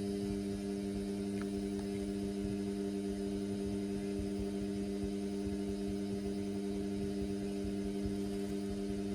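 Indesit washing machine giving off a steady, unchanging low hum while running a synthetics wash in a suds overload.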